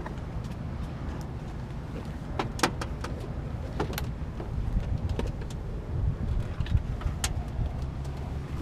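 A handful of sharp clicks and knocks as people climb into a small plane's cabin and settle into the seats, over a steady low rumble.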